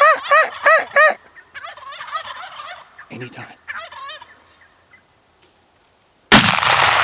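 Several Merriam's turkey jakes gobbling, loud through the first second and then weaker, with a word spoken softly about three seconds in. About six seconds in, a single loud gunshot, its echo trailing off.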